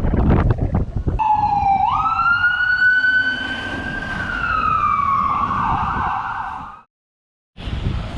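Wind buffeting the microphone, then an emergency vehicle siren in one long wail: it jumps up in pitch and slowly falls, with wind noise beneath it. Near the end the sound cuts out completely for about half a second, then the wind noise comes back.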